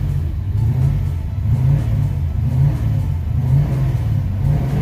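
Merlin V8 engine of a 1969 Chevy Nova idling, a loud, uneven, lopey idle that swells and dips about twice a second.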